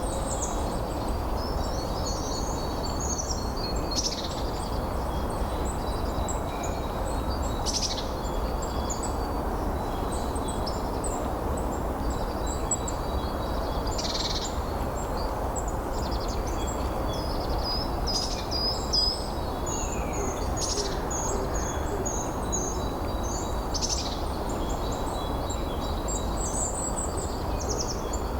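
Many songbirds chirping and singing in short high notes over a steady rush of wind.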